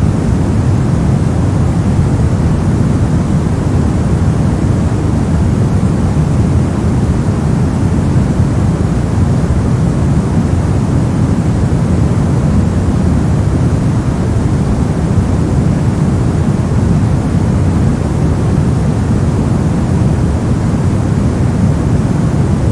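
Steady generated noise for sleep or study, sold as white noise but weighted heavily toward the low end, so it is a deep, even rush with no change in level or character.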